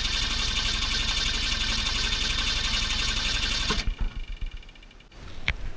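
The 1965 Ford Fairlane's engine running steadily, then dying about four seconds in with a few uneven last puffs.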